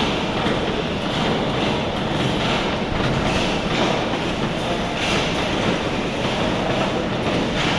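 Rebar cage welding machine running: a loud, steady, noisy mechanical clatter.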